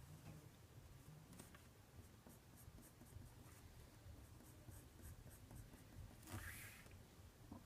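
Faint writing: a run of short pen strokes as a diagram is drawn, with a louder rustle about six seconds in.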